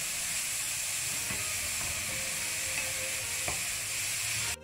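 Grated carrots sizzling steadily in hot ghee in a metal kadai on low heat while being stirred with a slotted spoon, with an occasional light scrape of the spoon against the pan.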